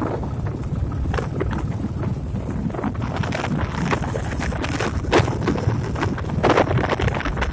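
Wind buffeting the microphone over the low rumble of a motorcycle underway, with gusty flares throughout.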